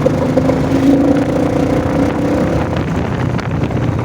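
Royal Enfield motorcycle engine running steadily while riding at road speed, with wind rushing over the microphone.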